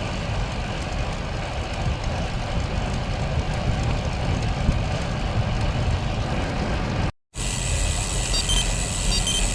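Wind buffeting the microphone, with road and tyre noise, while riding a bicycle. About seven seconds in the sound cuts out for a moment. It resumes with a steady high whine and a few short high beeps.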